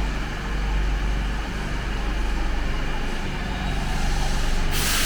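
Metro train standing at the platform with a steady low electrical and mechanical hum. Near the end comes a sudden loud hiss of compressed air as the train gets ready to leave.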